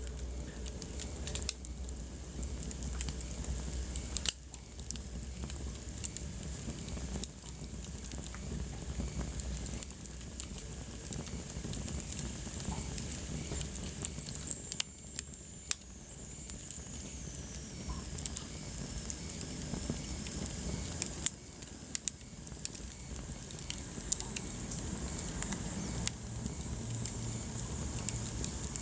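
Wood fire in a fireplace crackling, with frequent sharp pops over a steady low rumble of burning. A faint high whistle falls slowly in pitch about halfway through.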